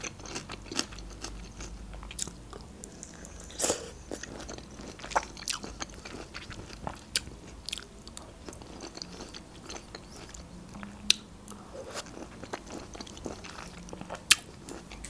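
Close-miked chewing of juicy peeled red grapefruit segments: wet mouth clicks and smacks scattered throughout, a few sharper ones standing out.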